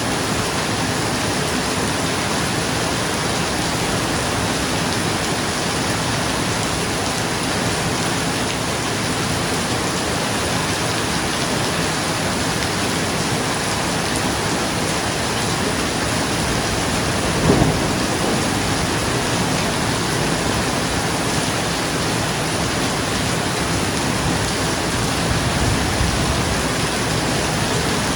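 Steady heavy rain falling on a roof, with a short clap of thunder about two-thirds of the way through and a fainter low rumble near the end.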